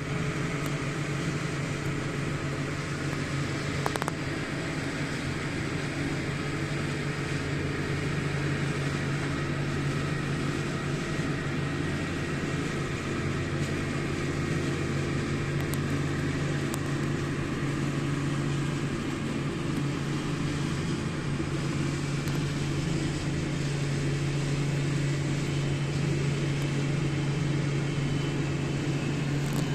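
Steady low motor hum, unchanging throughout, with a single click about four seconds in.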